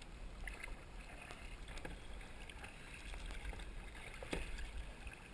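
Kayak on a river: light water splashes and lapping with scattered small knocks, one a little louder about four seconds in, over a low rumble of wind on the microphone.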